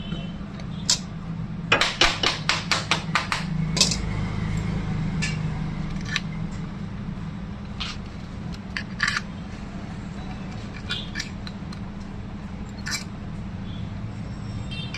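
Metal tools tapping and clinking on an electric motor's casing during reassembly: a quick run of about seven sharp taps around two seconds in, then scattered single clicks, over a steady low hum.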